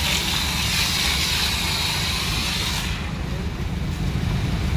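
A motor running steadily with a low rumble, under a loud hissing spray from the engine-bay wash that cuts off suddenly about three seconds in.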